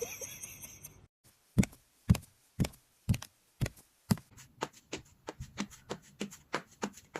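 A series of sharp taps or knocks, about two a second at first, then quicker and softer, about three a second, from about halfway.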